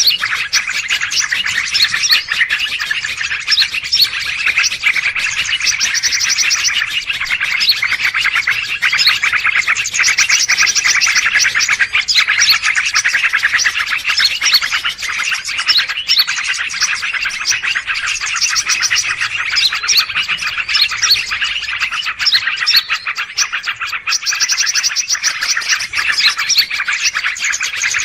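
Dense, noisy chorus of many small birds chirping at once: a bird-lure recording. A higher trilling phrase recurs every six seconds or so, as in a looped track.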